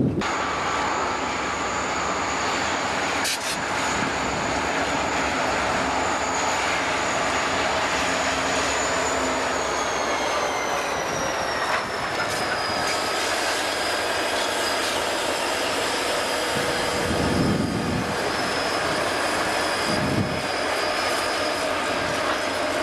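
Conrail freight train rolling past, with steel wheels squealing against the rail in a thin, high, steady tone that slides lower partway through, over the rumble and clatter of the cars, with a few sharp clicks.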